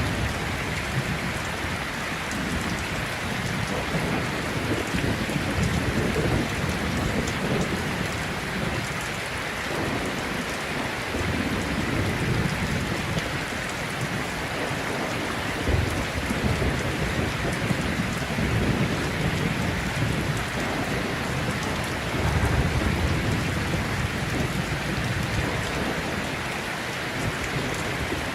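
Heavy rain falling steadily through a thunderstorm, with low rumbles of thunder that swell and fade several times.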